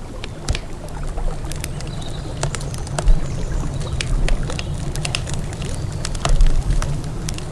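Wood campfire crackling, with frequent irregular sharp pops, over a steady low rumble of flowing river water.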